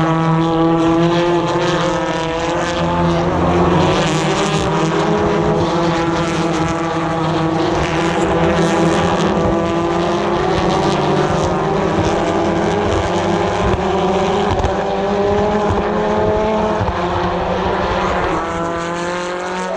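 British Touring Cars' 2-litre turbocharged four-cylinder engines running at racing speed as the pack streams past, several engine notes overlapping and shifting in pitch.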